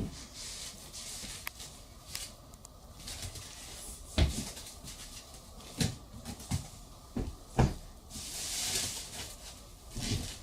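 Toys being handled: scattered knocks and thuds, the loudest about three quarters of the way through, with a rustle shortly after.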